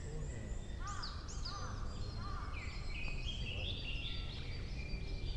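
Several songbirds singing at once, overlapping short whistled phrases, some falling quickly in pitch and some in stepped runs, over a steady low rumble.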